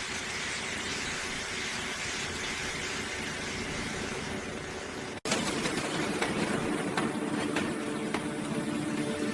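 Industrial machinery noise: a steady hissing run, then after an abrupt cut about five seconds in, louder running with scattered knocks and a steady hum.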